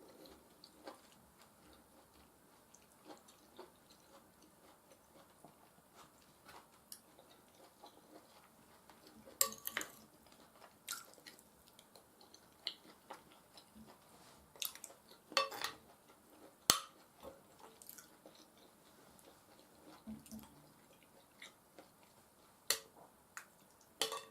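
Close-miked eating of mashed potatoes and beef stew: soft wet chewing sounds with scattered sharp clicks of cutlery against a dish, a few of them much louder than the rest.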